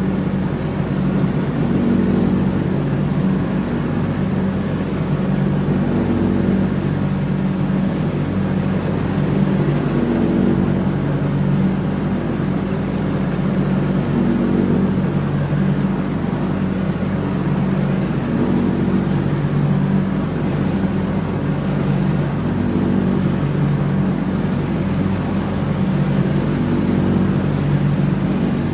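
John Deere 304X riding lawn mower running steadily under mowing load, its engine tone swelling and easing a little every few seconds.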